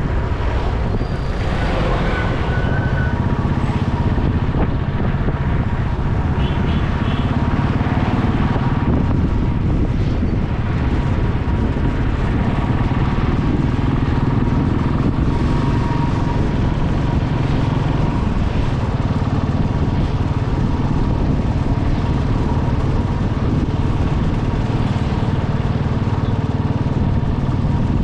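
Motorcycle engine running steadily while riding through traffic, with wind on the microphone. A few short high beeps sound about six to seven seconds in.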